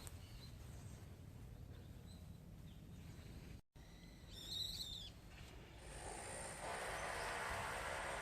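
Faint outdoor background, then a short high warbling bird chirp about four and a half seconds in, followed by a steady hiss of outdoor noise.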